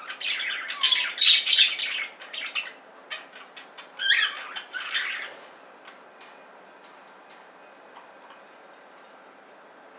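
Pair of budgerigars calling in rapid bursts of chatter through the first two and a half seconds and again from about four to five and a half seconds in, then only faint scattered clicks.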